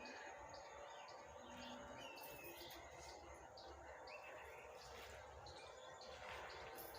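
Near silence, with faint bird chirps repeating two or three times a second in the background. No burp is heard.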